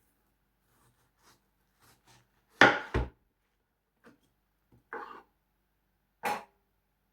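Kitchen knife chopping through watermelon onto a cutting board: scattered knocks, the loudest two close together about two and a half seconds in and another just after six seconds.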